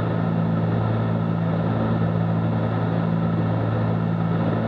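Steady cabin drone of a Cessna 310Q's twin piston engines and propellers in flight, a constant low hum.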